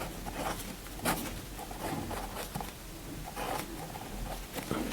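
A pen writing: short scratching strokes at irregular intervals, the sharpest about a second in.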